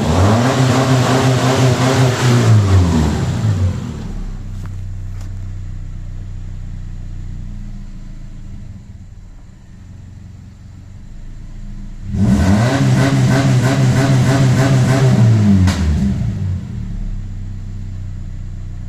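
Subaru EJ253 2.5-litre flat-four engine held at raised revs, then dropping back to a steady idle a few seconds in. About twelve seconds in it is revved up quickly again, held for about three seconds, and falls back to idle.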